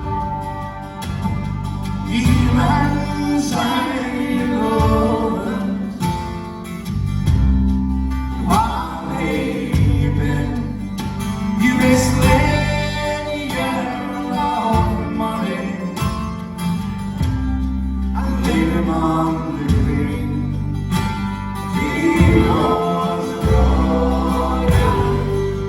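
Scottish folk band playing a traditional ballad live: a singing voice over acoustic guitar and other instruments.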